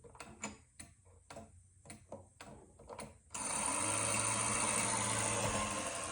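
Jordan Hettich singing bird clock ticking, about four ticks a second, then a little past halfway its singing-bird mechanism starts suddenly with a steady whirring hiss and a low hum.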